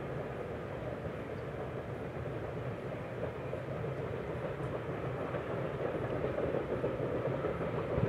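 Distant freight train rolling along, a steady rumble of its wagons on the track that grows slowly louder toward the end.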